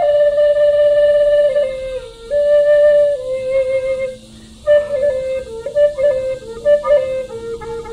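Flute playing a slow melody of long held notes, breaking briefly a little after four seconds and then moving through shorter, quicker notes.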